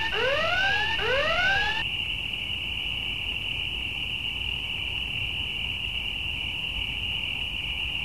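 Repeated rising whooping sweeps, about two a second, like an alarm effect, stop about two seconds in. A steady high-pitched insect chorus, crickets chirring, continues alone after that.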